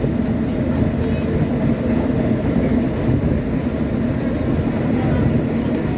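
Subway train running, a steady low rumble with a faint hum.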